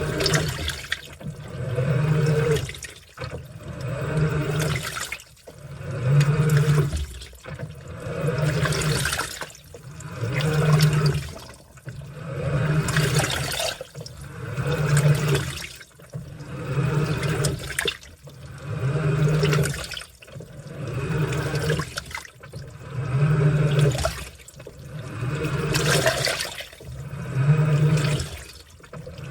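Washing machine in its wash cycle: water sloshing in regular surges about every two seconds as the load is churned, with the motor humming low during each turn.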